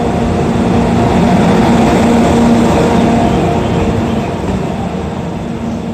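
EF64 1000-series electric locomotive running light past, a steady hum with rumbling wheel noise that grows louder, peaks about halfway through and then slowly fades.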